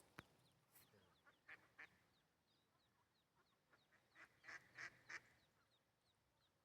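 Ducks quacking faintly: a pair of short calls about a second and a half in, then a quicker run of four or five calls around four to five seconds in.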